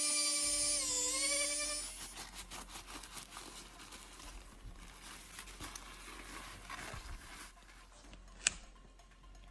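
A small electric power tool runs with a steady whine, dips in pitch under load about a second in, then stops about two seconds in. Faint handwork scraping and crinkling follows, with one sharp click near the end.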